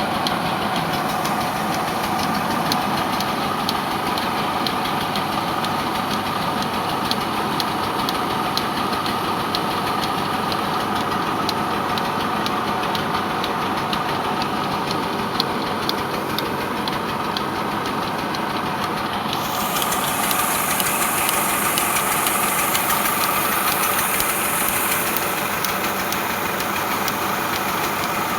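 Tractor's diesel engine running steadily with a rapid clatter. About two-thirds of the way through, a high hiss joins in and eases off a few seconds later.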